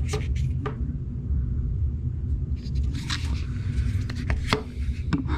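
A few light plastic clicks and scrapes from small drone battery packs being handled, over a steady low rumble.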